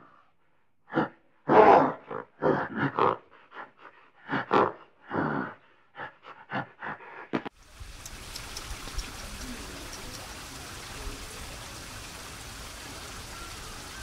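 Gorilla giving a run of short, irregular grunts and huffs. About halfway through they stop and a steady outdoor hiss of rushing water or wind takes over, with no goose calls heard.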